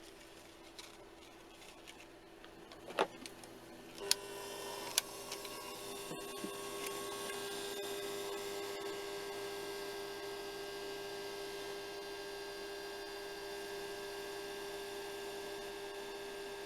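A few sharp clicks, then a hair dryer's motor starting about four seconds in and running with a steady hum.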